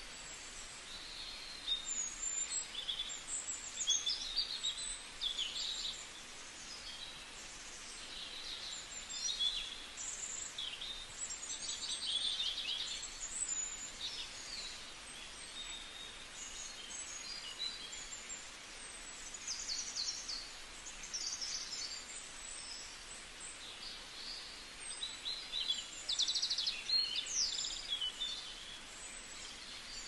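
Several wild birds calling and singing over a steady background hiss, with short chirps and fast trills coming and going.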